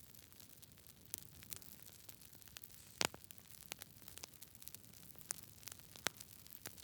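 Wood fire crackling in a fireplace: a steady soft hiss of burning logs with irregular sharp pops, the loudest about three seconds in and another about six seconds in.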